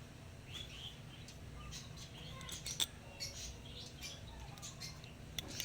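Small metal clicks and taps of a motorcycle carburetor's cover and bolts being handled and refitted, with faint bird chirps in the background.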